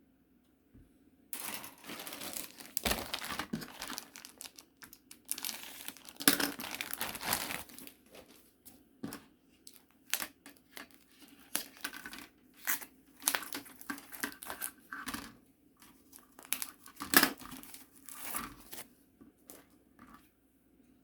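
Kit packaging crinkling and rustling as it is handled, in irregular bursts that start about a second in, with a few sharper crackles.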